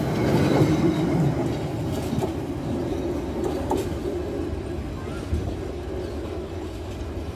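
Intercity passenger train's coaches running past on the rails, wheels rumbling, the sound fading steadily as the end of the train pulls away down the line.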